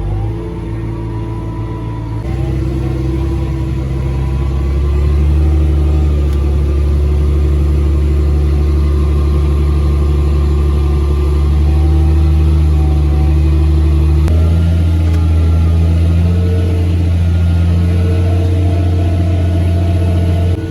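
Tractor engine running under load, heard from inside the cab as it pulls the grain cart. It makes a steady low drone that rises in pitch about two seconds in and shifts again about fourteen seconds in.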